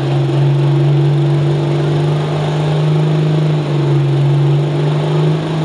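A pulling tractor's diesel engine running loud and steady at high revs, its pitch creeping slowly upward with a small step about two-thirds of the way through.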